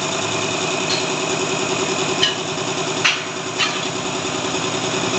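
Metal lathe running with a steady machine hum, with a few short sharp scrapes or clicks from the work.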